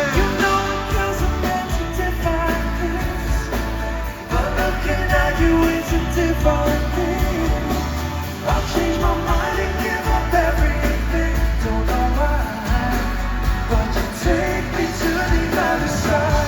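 Live pop band music with singing over a heavy bass beat.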